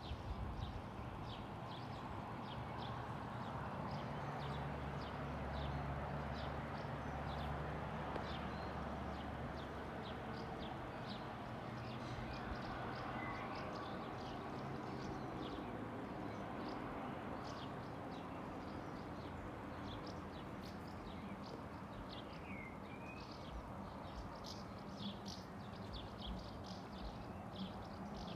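Seaside ambience: a steady wash of noise with the low drone of a boat engine that fades out about ten seconds in, and many small high clicks and a couple of short chirps throughout.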